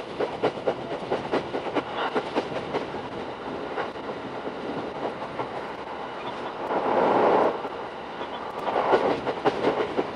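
Running noise of a Shinano Railway SR1-series electric train at speed: a quick clickety-clack of wheels over rail joints over a steady rumble, with two louder rushes of noise about seven and nine seconds in.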